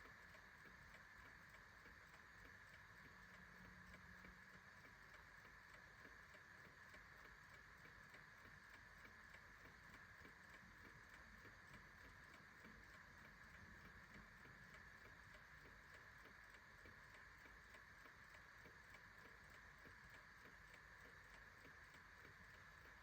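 Faint, steady ticking of a clock over a light, even hiss.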